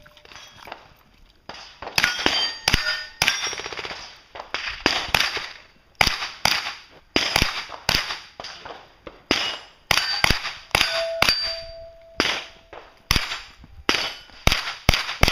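Single shots from an AR-15 rifle at an uneven pace of roughly one to two a second, each hit answered by a ringing clang from steel targets. The string starts about a second and a half in and keeps going.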